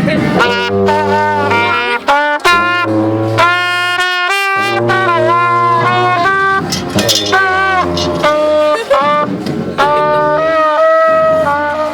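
Marching-band wind and brass instruments playing a melody of held notes over a low bass line.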